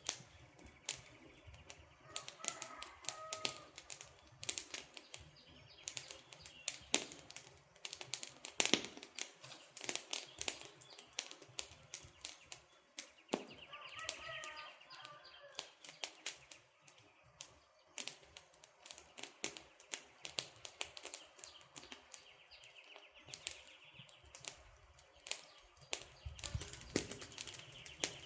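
Wood campfire crackling, with dense irregular sharp pops and snaps. A bird calls briefly twice, a few seconds in and about halfway through.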